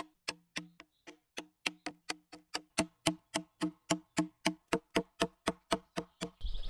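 Hand saw cutting through wood in quick, even strokes, about four a second, each with a short ringing click. Near the end a louder, rougher noise with a low rumble takes over.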